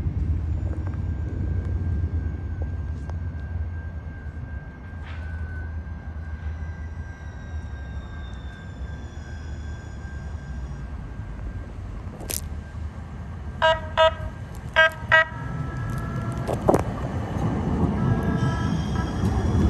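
Light-rail trolley horn sounding four short toots in two quick pairs over a steady low rumble of street traffic, followed by a steady high whine.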